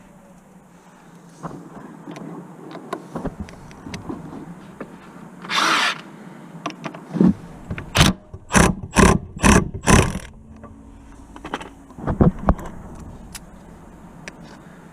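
Repair work knocks: a brief hiss, then five loud, sharp strikes about half a second apart, with a few scattered lighter clicks and knocks around them.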